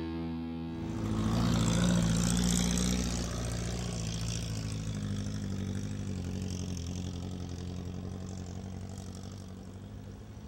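Off-road 4x4's engine running under load on a muddy trail climb, loudest about two seconds in, then slowly fading as the vehicle pulls away.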